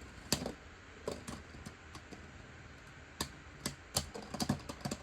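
Spinning Beyblade tops in a plastic stadium, giving irregular sharp plastic clicks as they knock against each other and the stadium.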